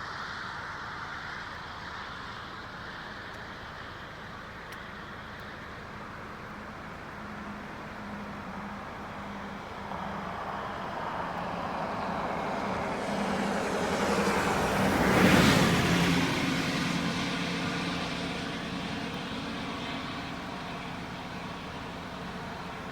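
A road vehicle approaches and passes close by, loudest about two-thirds of the way through, then fades away, over a steady rush of water.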